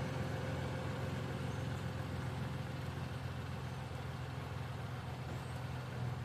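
Steady low engine hum, like a motor vehicle idling.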